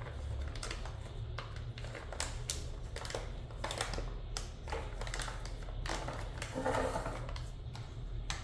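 Irregular light clicks and knocks from hands handling things, with a low steady hum underneath.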